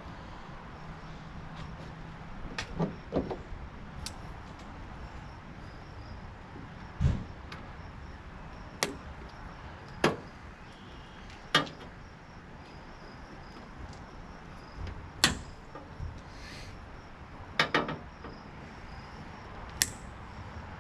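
Scattered clicks and knocks, about a dozen spread irregularly, some in quick pairs, from a tankless water heater being taken apart by hand as its screws and wires are removed. A steady low background noise lies beneath them.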